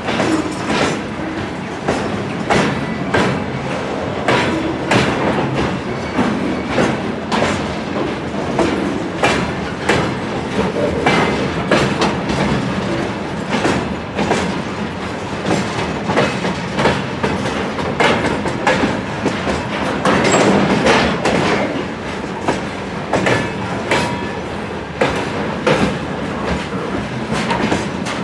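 Railway wagons rolling past, their wheels clacking over rail joints at an uneven rhythm of about one to two clacks a second, over a steady low rumble.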